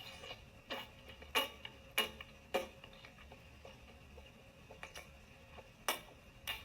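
Wet mouth smacks and sucking clicks of simulated oral sex. Four sharp smacks come about every half second in the first few seconds, then two more near the end.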